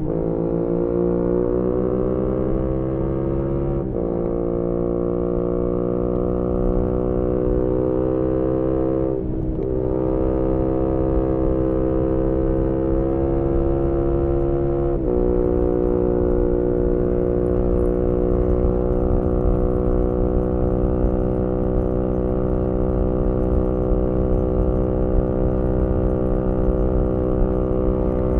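2018 Yamaha MT-125's single-cylinder four-stroke engine through a GPR aftermarket exhaust, heard onboard while accelerating. The revs climb and drop sharply with upshifts about 4, 9 and 15 seconds in, then the engine runs at fairly steady, slowly rising revs.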